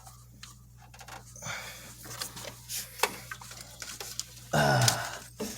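Scattered clicks and rustles of hands working spark plug wires on an engine, over a steady low electrical hum. A short, loud grunt-like vocal sound with a falling pitch comes near the end.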